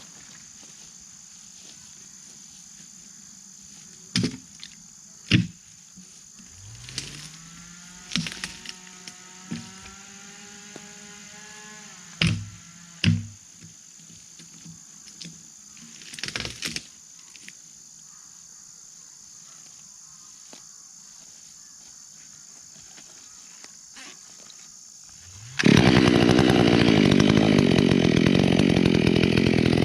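A two-stroke chainsaw starts about three-quarters of the way in and runs loud at high revs. Before it, a few separate knocks and a short low hum that rises and then holds for a few seconds, over a steady high insect drone.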